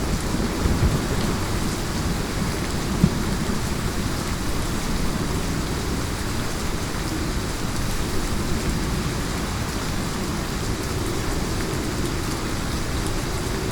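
Heavy rain in a thunderstorm: a steady, dense hiss of rain over a deep, low rumble. Two short, sharp knocks of close raindrops come in the first three seconds.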